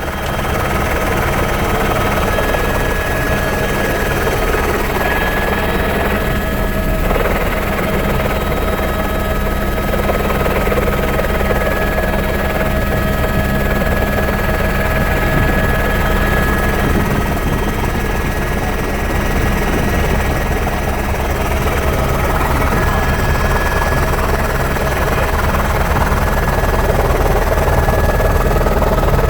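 Helicopter in flight: steady engine and rotor noise with a fast, even rotor beat underneath, growing slightly louder near the end.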